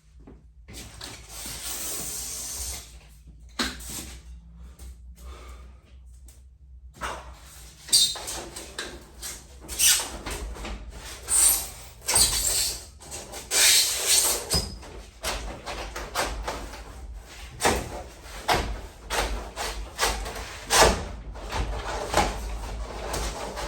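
Irregular knocks, scrapes and rustling of hands-on work on a garage door, busier in the second half.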